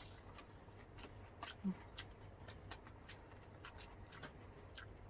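Close-miked chewing of food: scattered soft crunches, clicks and mouth smacks at an irregular pace, with a short low hum about one and a half seconds in.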